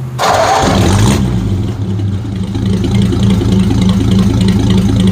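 Ford flathead V8 (8BA) in a 1950 Ford F1 pickup starting. It catches with a brief noisy burst in the first second, then settles into a steady idle.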